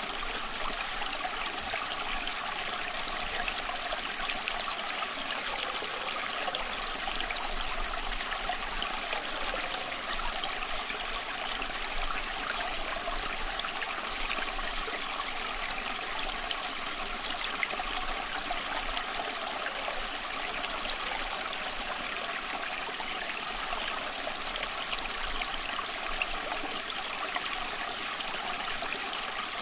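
Small stream flowing steadily over stones, a continuous babbling and trickling of water.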